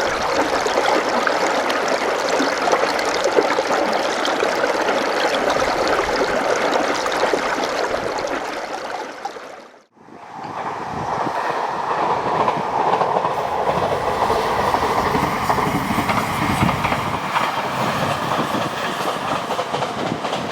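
Steady outdoor rushing noise in two recordings, with a brief fade to silence about halfway through where one recording gives way to the next.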